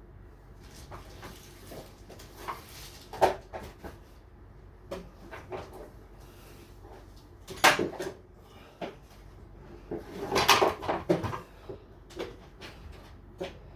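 Irregular knocks, clunks and scraping from a refrigerator being shifted and handled by hand. The sharpest clunk comes about eight seconds in, and a longer rattling scrape follows around ten to eleven seconds.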